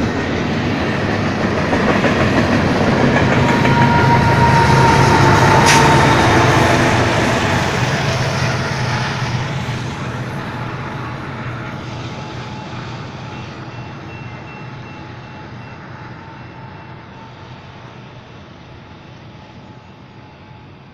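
Freight train cars rolling past on the rails, loudest about five seconds in with one sharp clank. The rumble then fades away steadily as the end of the train passes and moves off.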